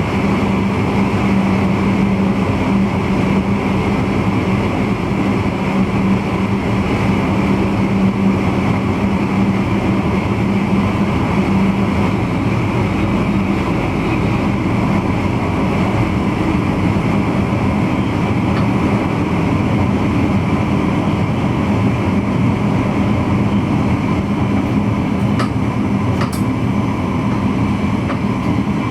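Running noise inside the driver's cab of an NS VIRM double-deck electric intercity train at a steady speed: an even rumble with a steady low hum, and two short clicks near the end.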